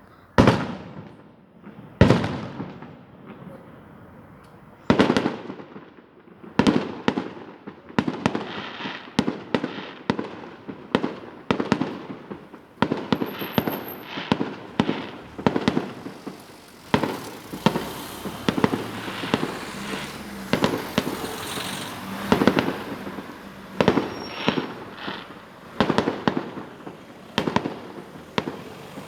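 Fireworks exploding: a few single bangs a few seconds apart, then many bursts in quick succession with crackling between them.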